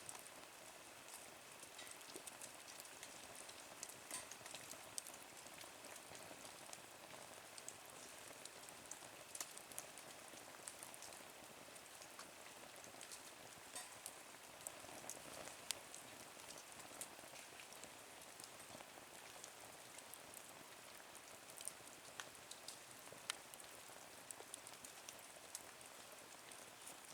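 Small wood fire burning in a twig stove, faint: a steady soft hiss with scattered small crackles and pops.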